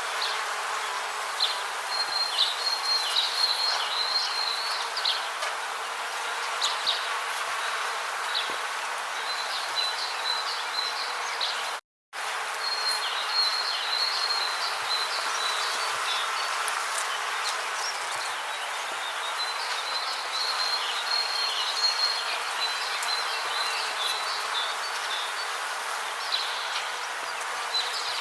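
Rainforest ambience: a steady hiss with high-pitched insect trills coming and going in short runs. The sound drops out to silence for a moment about twelve seconds in.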